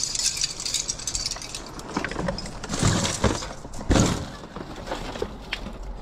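Discarded items being rummaged through and moved by hand: rustling, then a few knocks and clinks as hard objects hit each other. The loudest knock comes about four seconds in.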